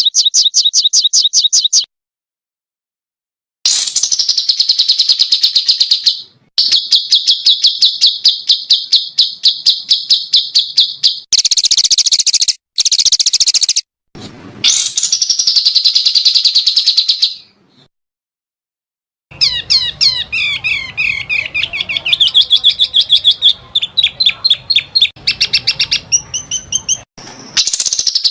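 Small songbirds giving rapid, fast-repeated high-pitched trills, the burst calls bird keepers call 'tembakan', in several runs separated by abrupt silences. Near the end a more varied twittering with falling notes over a faint low hum.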